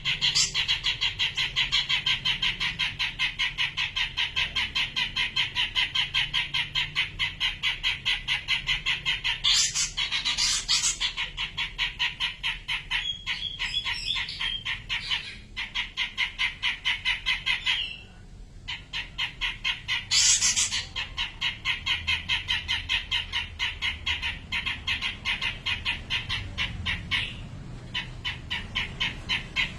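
Cak jenggot birdsong: a fast, even run of repeated chirping notes, about four or five a second, breaking off briefly twice, with a couple of shriller, harsher calls mixed in.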